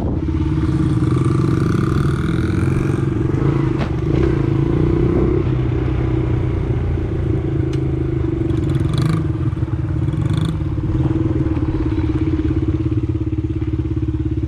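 Small pit bike engine running at a fairly steady speed while being ridden, with a couple of brief clatters about nine and ten seconds in.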